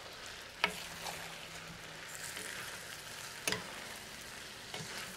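Chicken pieces with onion and pineapple sizzling in a glazed clay cazuela as they are stirred with a spatula. A steady hiss runs throughout, with two sharp knocks of the spatula against the pot, about a second in and again a little past three seconds.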